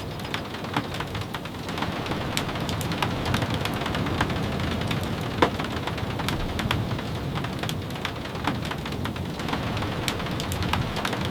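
Steady rain, with many scattered sharp taps of drops and a low rumble underneath.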